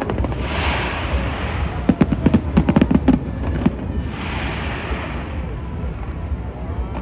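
Fireworks exploding: a rapid run of about ten sharp bangs from about two seconds in to nearly four seconds, with spells of hissing crackle before and after, over a steady low rumble.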